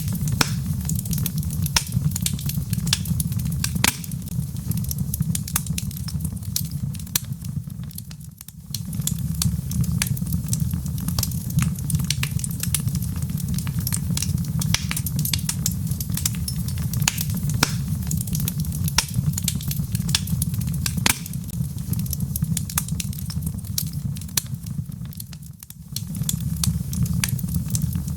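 Log fire burning in a fireplace: a steady low rumble of flames with many sharp crackles and pops from the burning wood. The sound dips briefly twice, about a third of the way in and near the end.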